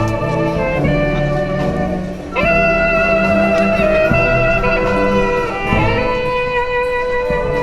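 Symphonic wind band playing a danzón: a melody line holds long notes over the band's lower accompaniment, with a short break a little over two seconds in before a new long note slides in from just below.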